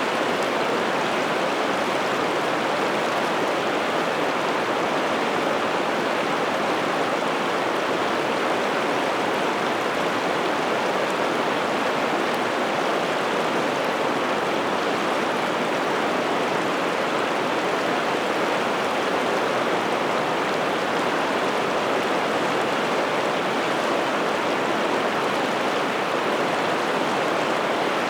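Piteälven river water running steadily, an even, unbroken rush of flowing water.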